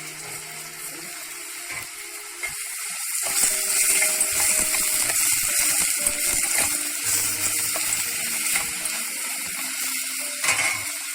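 Onion, carrots, green peas and parsley sizzling in butter in a pan while being stirred, with short scraping clicks; the sizzle grows louder about three seconds in.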